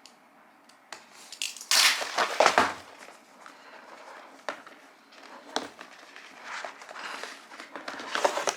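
Gift packaging being opened by hand: crinkling and rustling, loudest in a burst about two seconds in, then lighter rustles and small clicks as the contents are handled.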